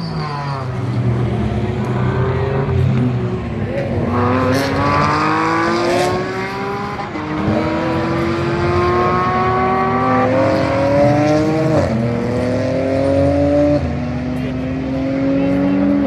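GT race car engine accelerating hard through the gears: the pitch climbs and drops sharply at each upshift, about four shifts in a row.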